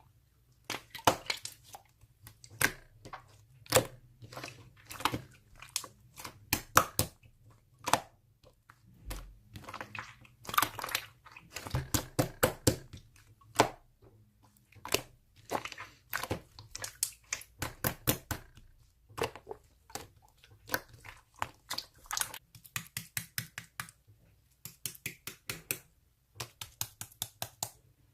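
Slime being worked by hand, giving sharp pops and clicks in quick runs of several a second, with short pauses between the runs.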